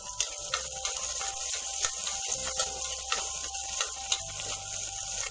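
Crushed ginger, garlic and green chilli sizzling in hot coconut oil, with frequent sharp crackles and pops over a steady hiss.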